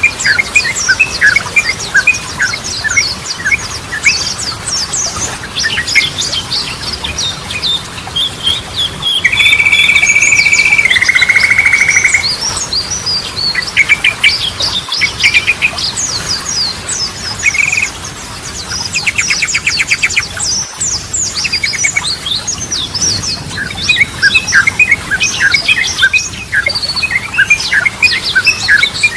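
Yellow-vented bulbul (trucukan) singing: a dense run of quick chirps and short rattling trills. About a third of the way in come two long held whistled notes, the second slightly lower, and these are the loudest part.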